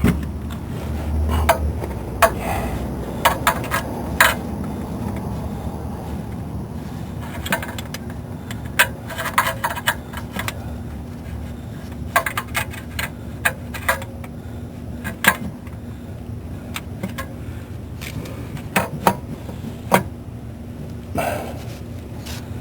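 Metal hand tools clinking and clicking in irregular sharp knocks, some in quick clusters, as a small wrench and socket work on the starter's power-cable nut, over a steady low hum.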